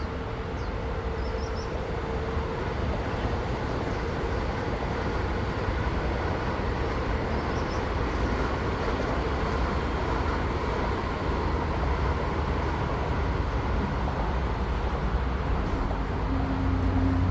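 High-speed train running past, a steady rushing rumble that grows slowly louder, with a low steady tone coming in near the end.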